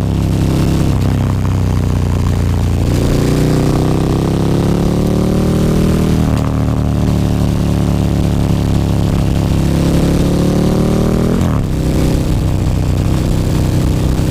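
KTM 1290 Super Duke R V-twin running through an Akrapovič slip-on exhaust while riding. Its note rises gradually twice as the bike pulls through the gears, breaks sharply at a gear change near the end, then holds steady.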